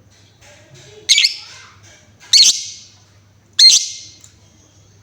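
Female lovebird giving three short, loud, high-pitched calls about a second and a quarter apart, each trailing off quickly.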